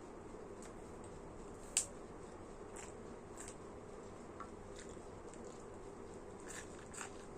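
Eating sounds close to the microphone: scattered soft clicks and smacks of chewing, with one sharper click about two seconds in, over a steady low hum.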